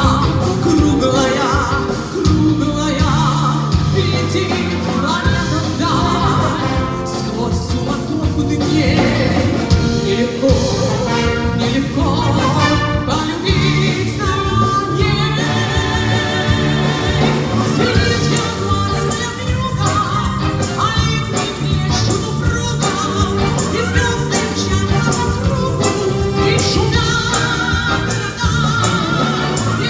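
Brass band playing a song, with a woman singing over it.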